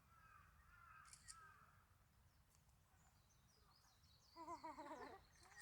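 A crow cawing briefly near the end, with small birds chirping faintly in the background.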